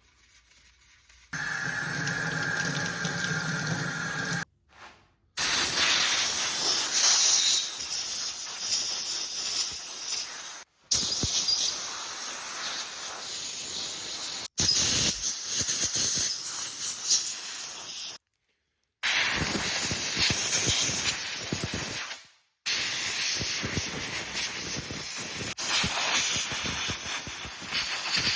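Loud, steady hissing of pressurised spray on the hand plane's metal parts during degreasing and drying with compressed air. It comes in several runs, each cut off abruptly. The first run has a lower, more tonal sound.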